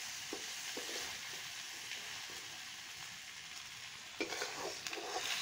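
Chicken curry sizzling in a wok on a chulha: a steady soft frying hiss, with a few light knocks about four seconds in.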